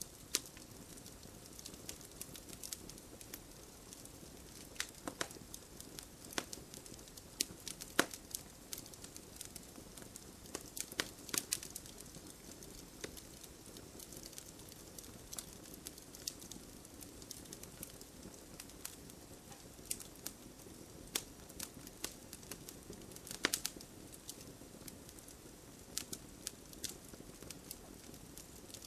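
Wood campfire crackling steadily, with irregular sharp pops and snaps over a soft low rush of flame; small clusters of louder snaps come several times.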